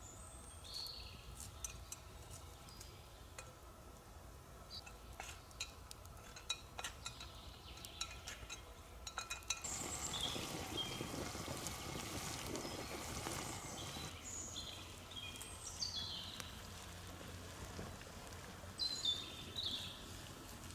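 Light clinks and knocks of cooking gear, then a louder rushing noise for about four seconds a little under halfway through. Birds give short high chirps throughout.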